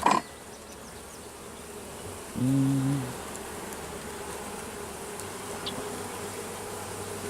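Honey bee colony buzzing steadily around the opened hive. One bee buzzes loudly past close by, briefly, about two and a half seconds in. A short knock comes right at the start.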